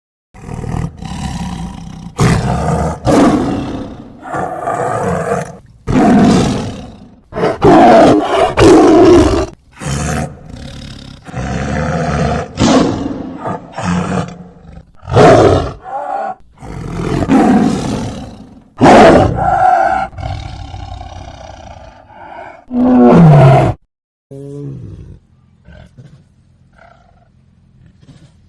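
Big cat roaring: a long series of loud roars with short gaps between them, giving way to much quieter sounds about four seconds before the end.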